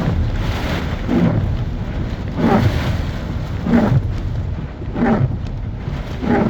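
Storm wind rumbling on the microphone with rain, and a brighter sound recurring regularly about every second and a quarter.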